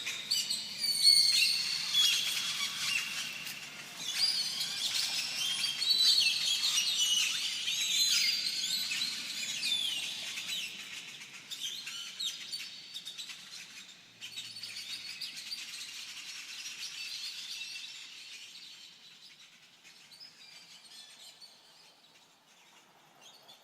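Many birds chirping and singing together in a dense chorus of short calls, gradually fading out.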